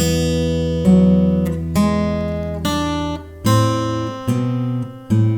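Acoustic guitar played slowly, one plucked note about every 0.85 seconds, each left ringing over a sustained bass note: a descending line with chromatic accidentals, including G-sharp and G-natural.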